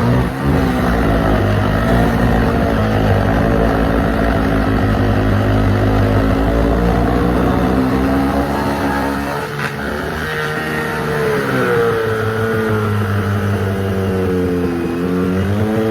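Petrol chainsaw running under load while cutting into a hot tub, its engine pitch dipping and recovering several times in the second half as the chain bites and frees.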